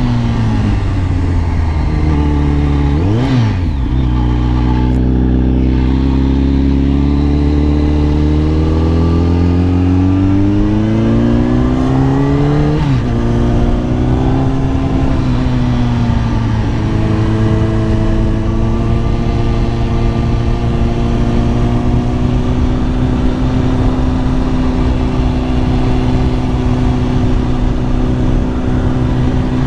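Kawasaki ZX-10R inline-four engine under way: a quick rev blip about three seconds in, then the revs climb steadily for several seconds, drop sharply at an upshift, and settle to a steady cruise.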